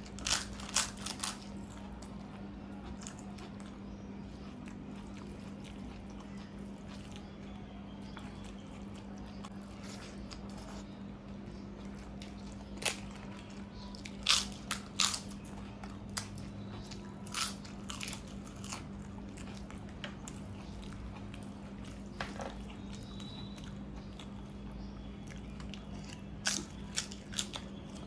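Close-miked crunchy bites and chewing of crisp fried food, in short clusters of sharp crunches separated by quieter chewing, over a steady low hum.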